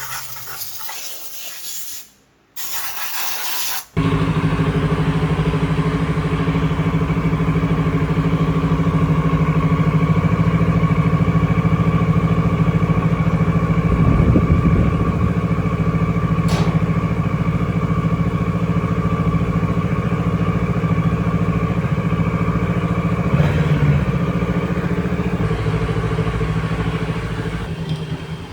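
A hissing spray for the first few seconds, then a motorcycle engine idling steadily for the rest, easing off slightly near the end.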